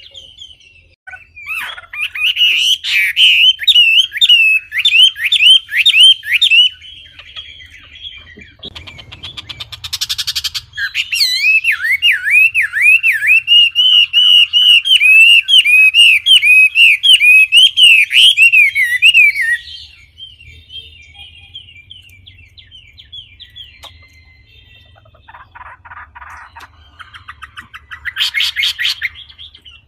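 Songbird singing long, loud phrases of quick, repeated swooping chirps, with a short buzzy rattle between them and another one near the end.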